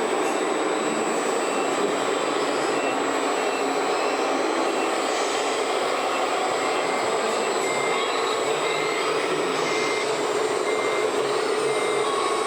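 Scale RC trucks and construction machines running, a steady mechanical drone, with a reversing beeper sounding short beeps about every second and a half.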